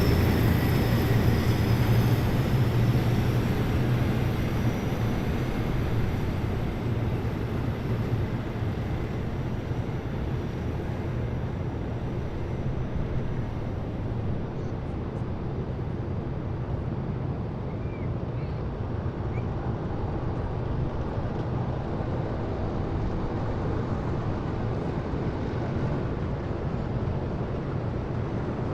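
Heavy military vehicles' engines rumbling as they pass. The low rumble fades over the first ten seconds as they move off, then carries on as a steady, more distant drone.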